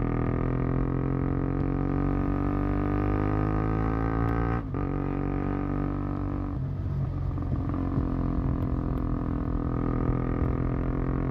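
KTM Duke 125's single-cylinder four-stroke engine heard through its exhaust while riding at low speed: a steady droning note that climbs slowly in pitch. The note breaks off for a moment about four and a half seconds in, goes rough and uneven around seven seconds, then settles back to a steady drone.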